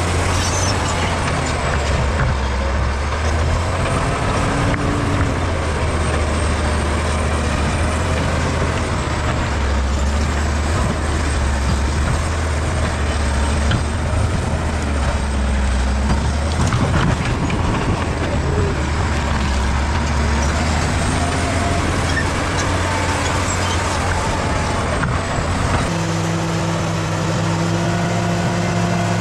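Bulldozer diesel engine running steadily, its pitch wavering up and down. About 26 s in, the engine note changes to a steadier, more even tone.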